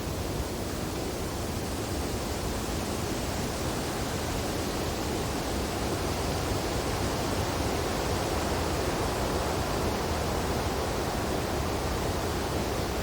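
Wind blowing steadily through snowy tree branches, an even, unbroken noise with no gusts standing out.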